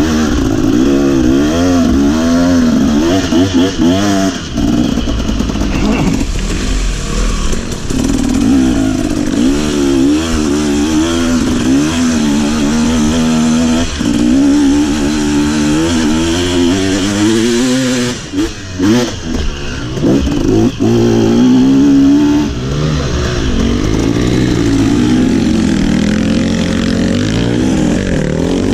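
Trail motorcycle engine running under constant throttle changes, its pitch rising and falling again and again. The sound dips briefly a couple of times a little past the middle.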